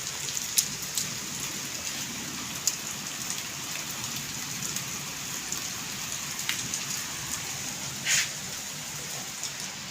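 Heavy rain falling in a steady hiss, with a few sharp separate hits, the loudest about eight seconds in.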